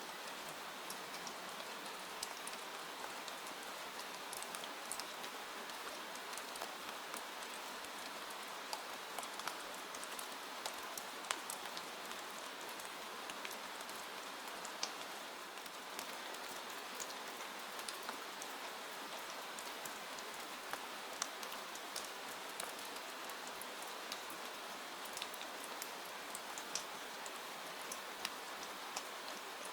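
Steady rain falling, an even hiss with scattered sharp clicks through it.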